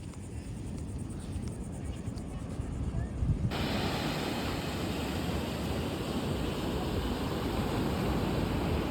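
A low outdoor rumble, then about three and a half seconds in an abrupt switch to a steady rush of ocean surf with wind on the microphone.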